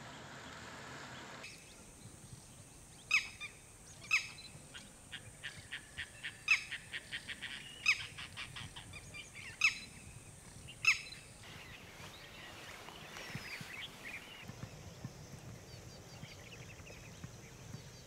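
Wetland birds calling: about six sharp, loud calls spaced a second or two apart, with a fast run of quieter chips between them, then only faint chirps near the end.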